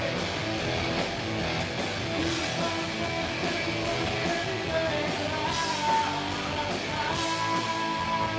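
Live rock band playing: electric guitars over a steady drum beat, with a singing voice.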